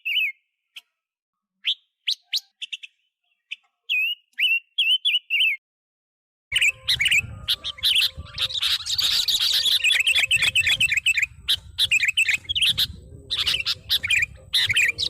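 Great tits calling: quick runs of short, high, hooked chirps with pauses between them. About six seconds in, the chirping becomes denser and continuous, over a low outdoor rumble and hiss.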